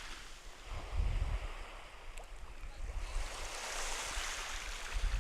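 Small waves washing on a beach, a steady hiss that swells in the second half. Wind gusts buffet the microphone with a low rumble about a second in and again near the end.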